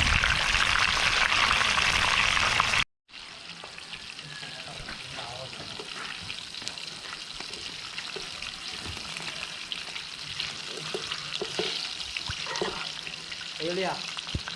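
Chicken leg pieces frying in hot oil, a loud, steady sizzle that cuts off abruptly about three seconds in. A quieter, steady sizzle follows.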